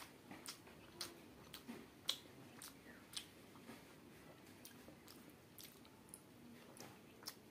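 Quiet eating sounds: faint wet clicks and smacks of a mouth chewing at irregular intervals, from rice and jackfruit curry eaten by hand.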